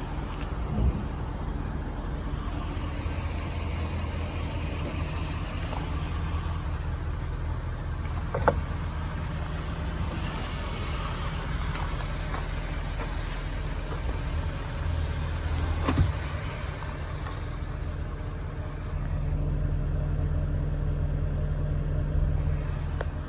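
2011 Ford F350's 6.7L V8 turbo diesel running steadily at idle, with a few sharp clicks or knocks over it and a somewhat louder, steadier run for the last few seconds.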